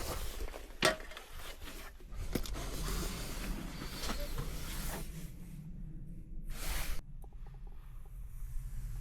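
Rustling and clicking of camping gear being handled, with a sharp click about a second in and a brief swish near seven seconds, over a steady low rumble.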